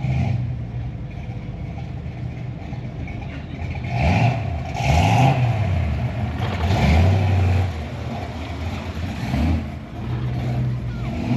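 Car engine idling and revved several times, its pitch rising and falling in short blips through the middle of the stretch before settling back to idle.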